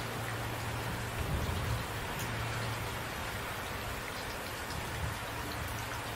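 Steady rain falling, an even hiss of many drops with a few sharper single drop taps here and there.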